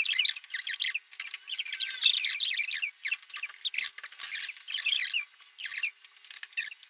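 Small birds chirping and twittering in quick, high-pitched runs of short calls, with brief gaps around the middle and near the end.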